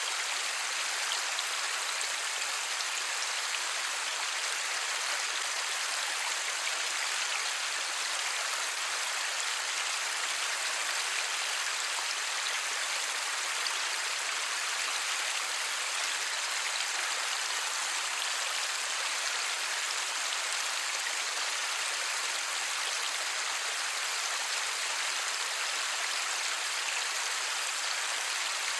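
Steady light rain falling, an even hiss with faint patter of drops and no thunder.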